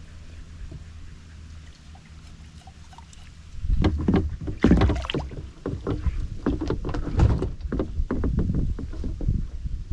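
Canoe on the water, paddled and handled: after a quiet low rumble, irregular splashes and knocks against the hull start about three and a half seconds in and go on.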